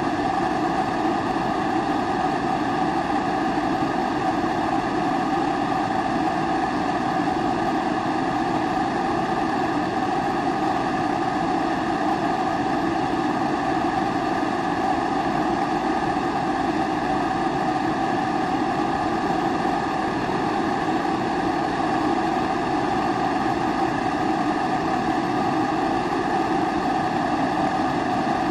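Pressurised kerosene primus stove burning: a steady, unchanging rushing sound with a low hum in it.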